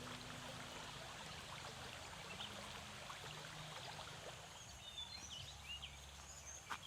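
Faint outdoor ambience: a steady low hiss, with a few short high chirps and light clicks in the second half.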